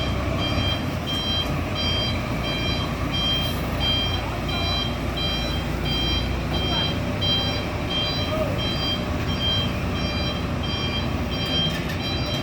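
Truck's reversing alarm beeping in a steady rhythm, about three beeps every two seconds, over the low rumble of the engine as the truck backs up.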